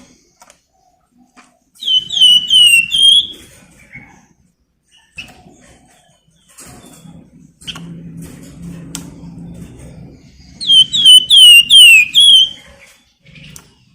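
A songbird sold as 'flamboyan' calls twice in loud, shrill bursts. Each burst is about five rapid chirps that slur downward, lasting a second and a half. Between the bursts there is a low rustling noise.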